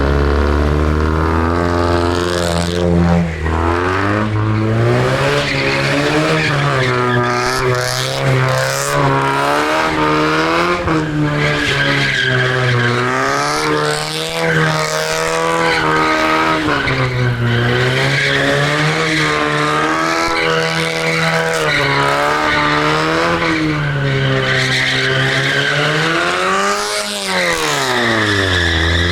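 Drift car's engine revving hard, its pitch climbing and dropping again and again, with tyres squealing and skidding through the slides.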